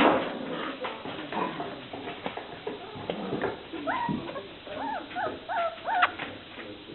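Five-week-old puppies whimpering: a run of four or five short, high whines about four seconds in, among small knocks and scuffling, with a louder knock at the very start.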